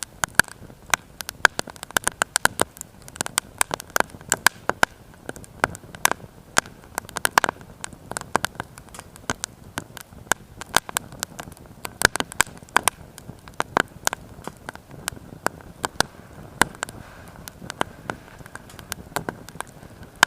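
Firewood burning in a small stove, crackling steadily with many sharp, irregular pops.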